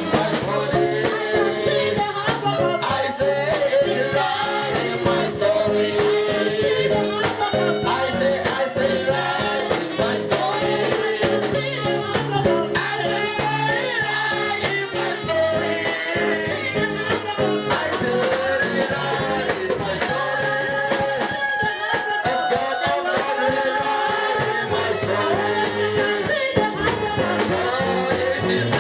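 Gospel worship music: singing over instruments with a steady beat.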